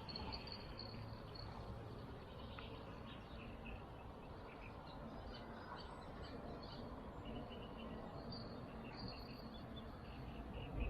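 Faint outdoor ambience of insects and birds chirping, short repeated trills over a low steady background.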